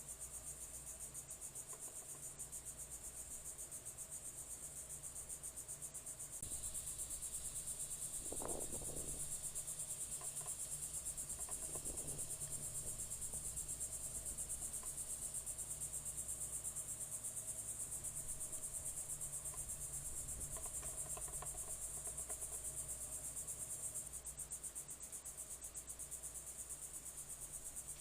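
Steady, high-pitched, rapidly pulsing chorus of crickets trilling, which steps up in loudness about six seconds in. A few brief, faint other sounds come through lower down.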